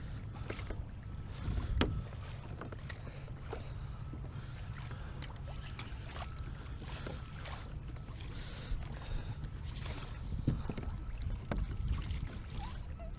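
Steady low rumble of wind and water around a kayak, with scattered light knocks and clicks of gear against the hull. The loudest bump comes about two seconds in, and a few more follow near the end.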